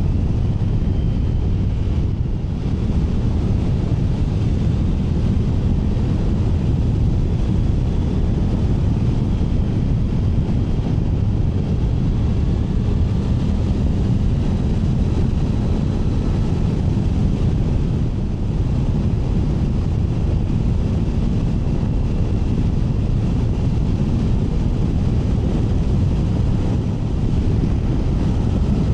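Wind rushing over the helmet microphone with the steady drone of a Triumph Tiger 900 Rally Pro's three-cylinder engine at cruising speed.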